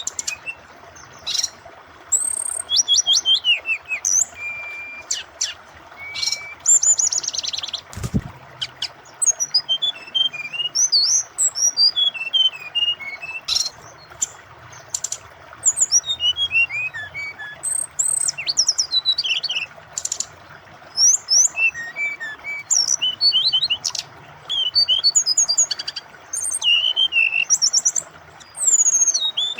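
Brown-chested jungle flycatcher (SRDC) singing: repeated bursts of rapid high chirps and trills with short pauses between them, over a steady wash of running water. A single low thump about eight seconds in.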